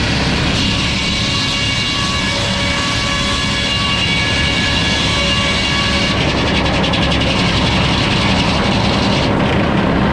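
Sawmill running steadily with the saw cutting through a hardwood log. A high cutting hiss thins about six seconds in and fades near the end.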